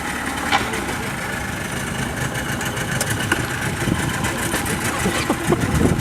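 Tour boat's outboard motor running steadily under way.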